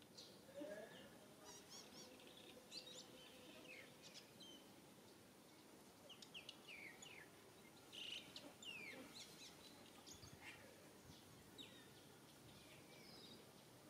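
Faint bird chirps: short, high falling notes in scattered clusters over a quiet outdoor background.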